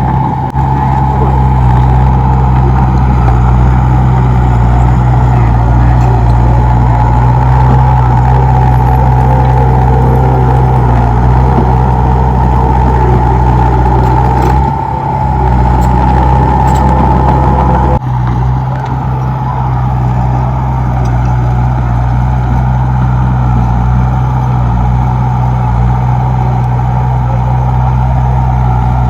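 Komatsu D31P crawler bulldozer's diesel engine running steadily under load, with a steady high whine over it. The sound dips briefly about halfway through and changes abruptly a few seconds later.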